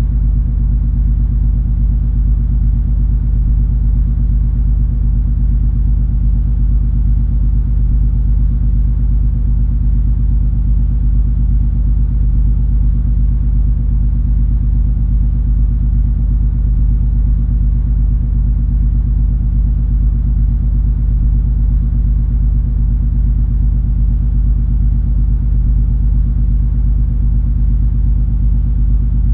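Steady low drone of the cruise ferry MS Color Magic underway: a deep rumble of engine and hull with a constant hum in it, unchanging throughout.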